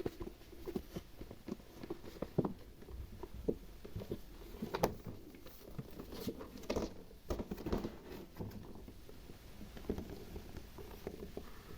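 Irregular soft taps, small clicks and light squelches of hands handling slime and small plastic decorations, with a few sharper ticks along the way.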